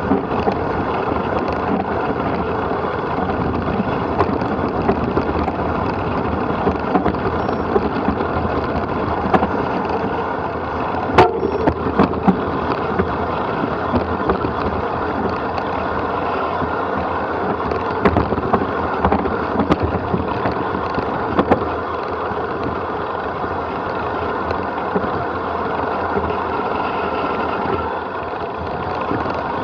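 Wind rushing over the microphone and rolling noise from a fast run down a rough forest trail, dotted with sharp knocks and rattles, the loudest about eleven seconds in.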